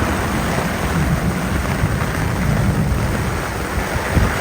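Heavy rain pouring down in a steady rushing downpour, with a low rumble underneath.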